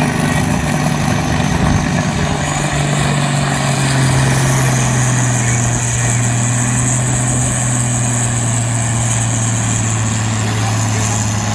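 Turbocharged diesel pulling tractor running hard under load. Its deep steady engine note sinks a little in pitch a few seconds in while a high turbo whistle rises and holds.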